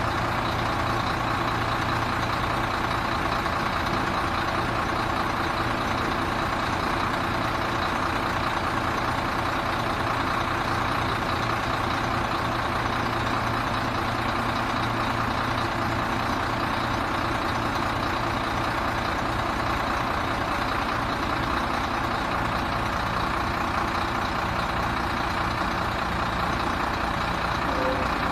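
Sinotruk HOWO 6x4 dump truck's 371 hp diesel engine running steadily, with no revving.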